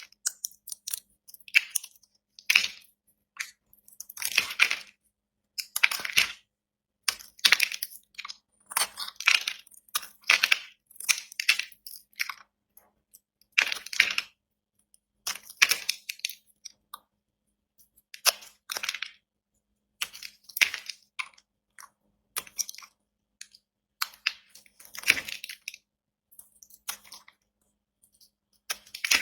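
A knife cutting through dry, hard soap: a series of short, crisp crunches, about one a second at an uneven pace, with silence between the cuts.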